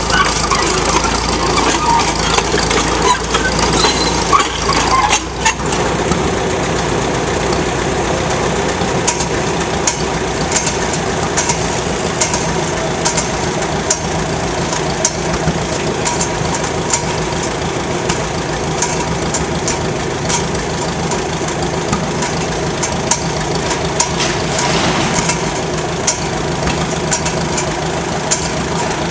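An engine running steadily, with scattered metallic clicks and clanks over the top.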